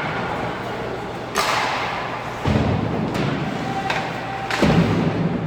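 Echoing bangs and thuds in an ice hockey arena, typical of the puck and players hitting the rink boards: a sharp bang about a second and a half in, then two heavier thuds.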